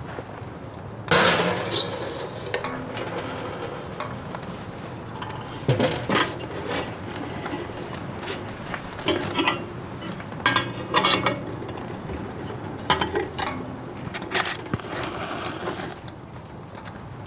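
Irregular knocks and clinks of hard objects being handled and set down, about ten of them spread unevenly over the stretch, the loudest about a second in.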